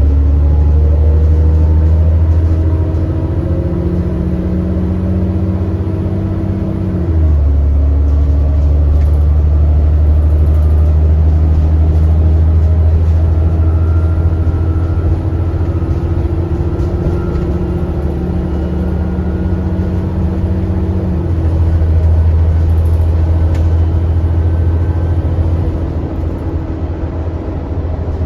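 ADL Enviro400 double-decker bus engine heard from on board, pulling steadily. Its pitch rises slowly and then drops sharply twice, about seven seconds in and again after about twenty-one seconds, as the automatic gearbox changes up. A faint hoover-like whine sits behind the engine.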